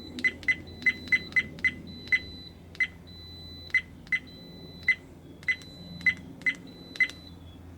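Dashcam button-press beeps: about fifteen short, identical high beeps at uneven intervals as the menu is stepped through.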